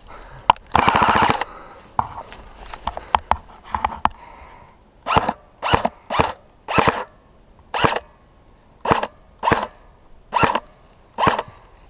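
A short rattling burst, about half a second long, a second in, like an airsoft electric rifle firing on full auto. Then, from about five seconds in, a run of short, hard breaths close to the microphone, one every half second to a second.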